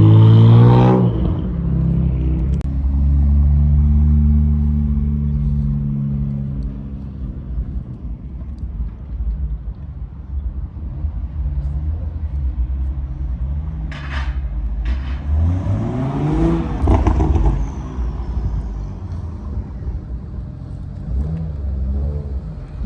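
Car engines: one revs high and drops off about a second in, a deep low rumble then fades away over several seconds, and about two-thirds of the way through an engine is blipped, its pitch rising and falling quickly.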